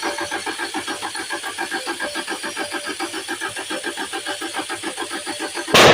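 Land Rover engine being cranked by its starter motor: an even, rapid chugging of about nine compression beats a second without the engine catching. Near the end the cranking stops with a short, loud burst of noise.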